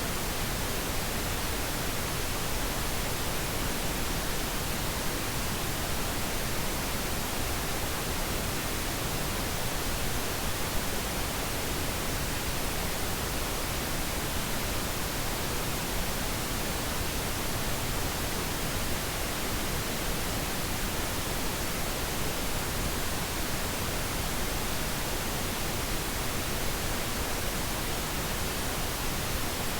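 Steady pink noise: an even, unchanging hiss spread across all pitches, generated as a sleep aid.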